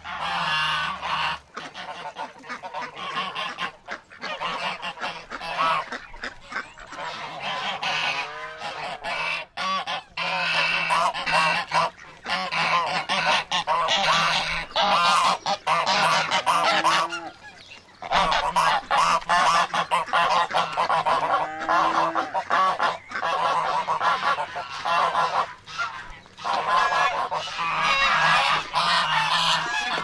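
Geese honking, many calls overlapping almost without pause, with a couple of brief lulls.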